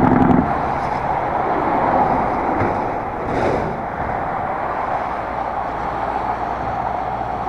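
Fat-tire bike riding along a packed, melting snow trail: a steady rushing noise from the wide tyres on snow and the movement of the ride.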